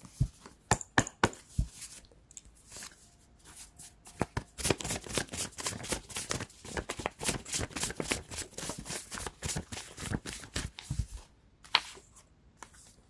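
Tarot cards being shuffled and handled. A few separate card snaps come first, then a dense run of quick, crisp card flicks lasts several seconds, with one last snap near the end.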